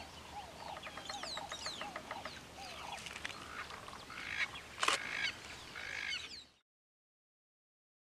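Several wild birds calling: chirps, descending whistles and a rapid even run of clucking notes, with one sharp click just before five seconds in. It cuts off suddenly into silence about six and a half seconds in.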